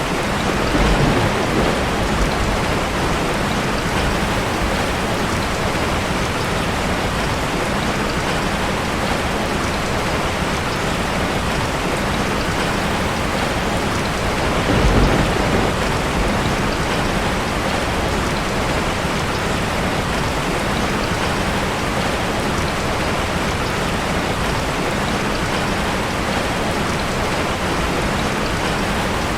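Steady rain, with two brief low rumbles of thunder, one about a second in and one about halfway through.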